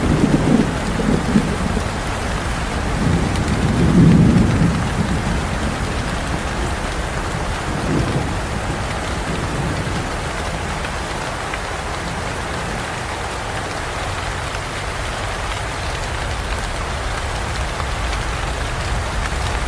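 Steady heavy rain with rolling thunder: low rumbles at the start and about four seconds in, the loudest, and a smaller one near eight seconds, then only the even rain.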